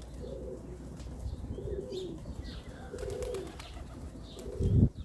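Serbian highflyer pigeons cooing, one low coo about every second and a half. A loud gust of wind hits the microphone near the end.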